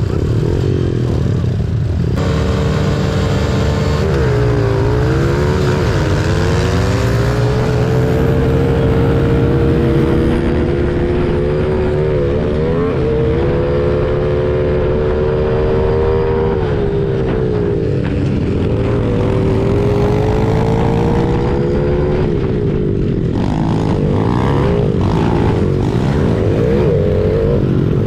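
Honda CRF70 pit bike's small single-cylinder four-stroke engine at full throttle in a race, heard from onboard, its pitch repeatedly rising and dropping as it accelerates and shifts, with other pit bike engines running close around it. The engine note comes in strongly about two seconds in.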